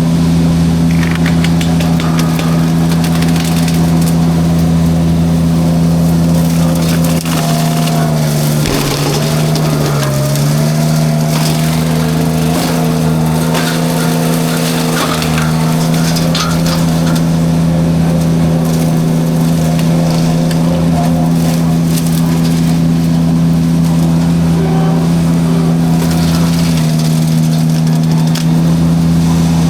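Mini skid steer's engine running hard while its forestry drum mulcher shreds brush, with crackling and splintering of wood. About eight seconds in the engine pitch sags under the load for a couple of seconds, then recovers.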